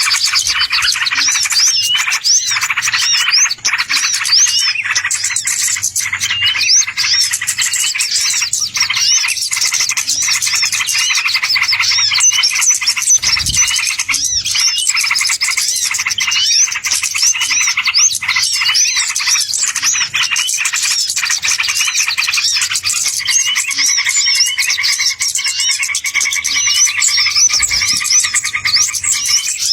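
Small songbirds chirping densely and continuously: rapid, high, repeated notes with no pause, played as a bird-luring call. A lower, steadier trilling tone joins in for the last few seconds.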